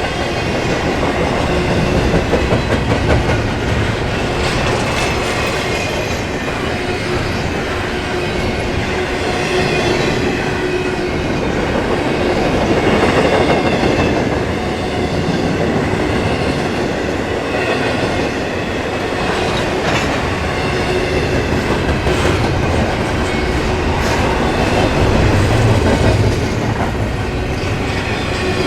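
Norfolk Southern intermodal container train rolling past: a continuous rumble and clatter of steel wheels on rail that swells and eases slightly, with a faint steady ringing tone over it.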